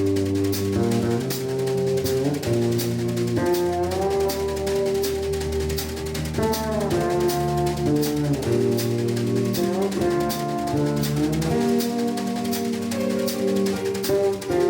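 Live jazz band playing: electric bass and drum kit with a steady cymbal pulse under a long-held melody line that slides between notes.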